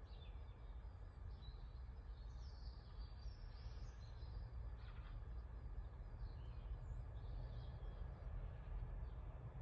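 Birdsong: faint, scattered short chirps and calls, busiest in the first half and again near the end, over a steady low rumble.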